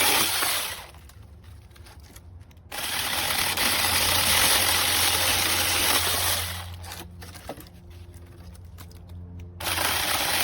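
Cordless electric mini chainsaw with a 6-inch bar running in three bursts, the trigger let off between them, as it cuts through small sticks. The first burst stops about a second in, the second runs for about three and a half seconds, and the third starts near the end.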